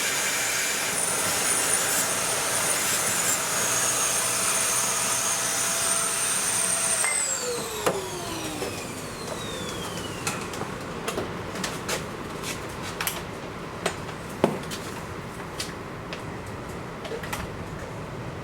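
A small electric motor of a cleaning tool runs with a steady whine, is switched off about seven seconds in and winds down in pitch over a couple of seconds. It is followed by scattered light clicks and knocks of handling.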